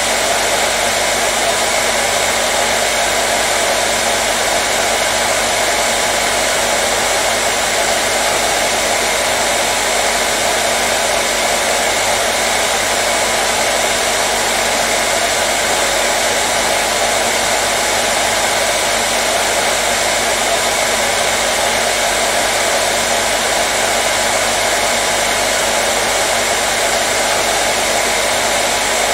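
Hair dryer running continuously at a constant speed, a steady airy rush with a faint hum of the motor, unchanging throughout.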